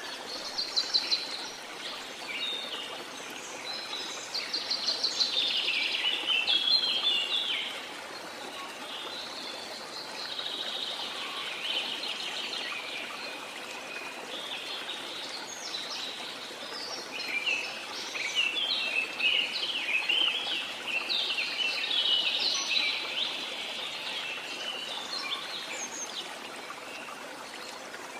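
Waterfall rushing steadily, with jungle birds singing over it in several bouts of quick chirps and rapid trills.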